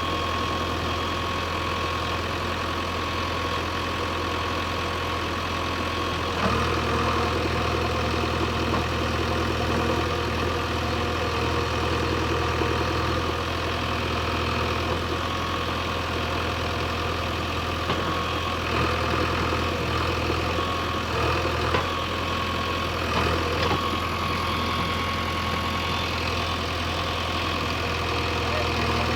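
JCB backhoe loader's diesel engine running steadily, then louder and heavier from about six seconds in, with a few short swells later on.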